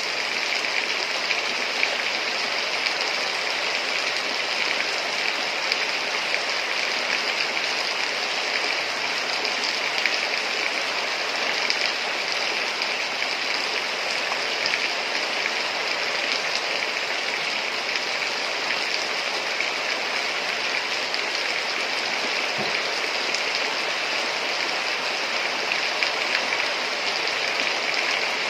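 Heavy rain pouring steadily: an even hiss with a dense patter of drops that does not let up.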